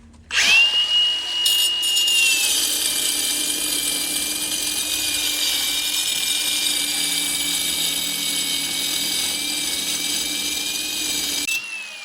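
Electric power tool spinning up sharply with a high whine and cutting steadily under load, its pitch settling slightly lower once it bites, then stopping near the end.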